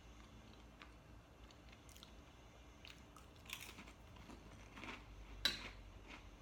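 A person chewing and crunching a cracker, in a few short crunchy bites a few seconds in, with a single sharp click near the end.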